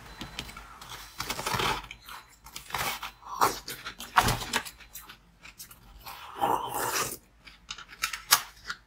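Close-up crunching and chewing of a crunchy frozen treat: a string of crisp bites and crunches at uneven intervals.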